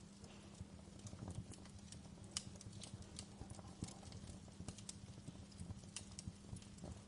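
Wood fire crackling: irregular sharp pops and snaps over a low steady rumble, with one louder pop a little over two seconds in.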